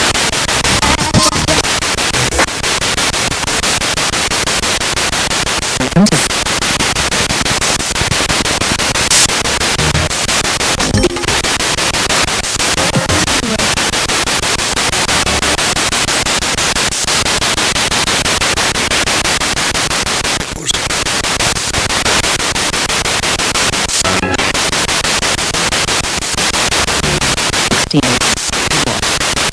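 Spirit box radio sweeping through stations: steady loud static, cut by short dropouts every few seconds, with brief snatches of broadcast music and voices.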